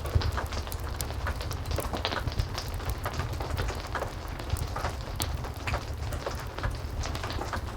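Heavy rain falling steadily, mixed with a wood fire crackling in a fireplace: many small sharp crackles over the rain and a steady low rumble underneath.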